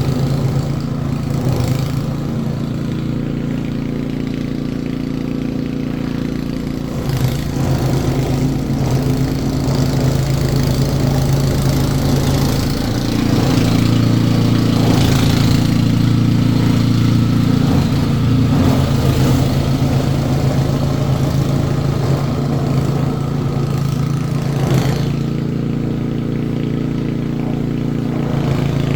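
An engine running steadily, growing louder and a little higher in pitch for several seconds around the middle, then settling back.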